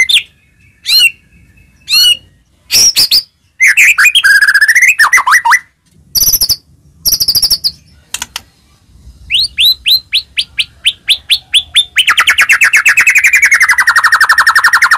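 White-rumped shama in full song: loud, varied whistled phrases, then a run of rising notes that speeds up, ending in a rapid trill lasting about three seconds.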